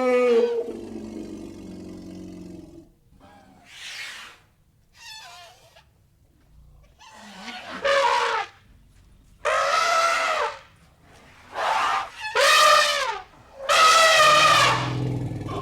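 Elephant trumpeting: a series of separate calls. A rough call at the start trails off over a couple of seconds and two faint calls follow, then five or six loud trumpet blasts of about a second each come from about 7 seconds in, their pitch bending up and down.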